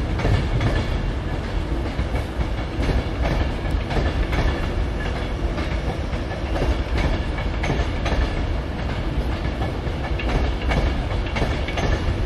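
Electric trains, a departing Avanti Pendolino and a ScotRail electric unit, rolling slowly over the station pointwork: a steady low rumble of wheels on rail with many irregular clicks and knocks from the joints and crossings.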